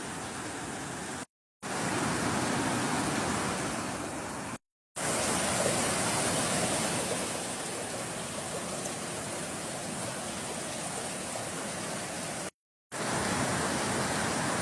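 Water rushing steadily over a low-water river dam, cut by three brief silences.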